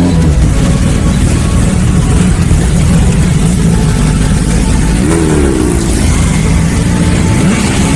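Motor vehicle engines running loud and steady, with one engine revving up and back down about five seconds in and another pitch glide near the end.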